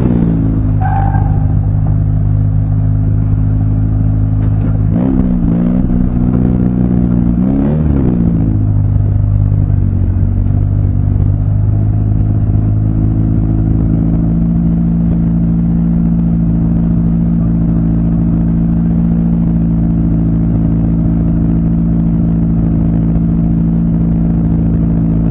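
Gymkhana car's engine idling steadily, heard from inside the cabin, with two short throttle blips about five and eight seconds in.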